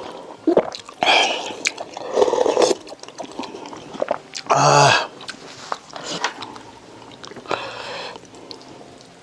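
Close-miked chewing and eating sounds, with several short bursts and small clicks between; the loudest burst is about halfway through.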